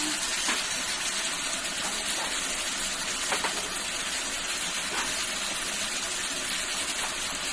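Chicken and chestnuts sizzling in a pan, a steady hiss with a few faint taps of a utensil.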